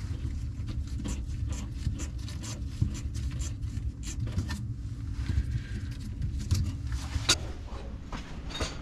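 Clicks, scrapes and rubbing of parts and tools being handled during a faucet installation, with a sharper click about seven seconds in, over a steady low rumble.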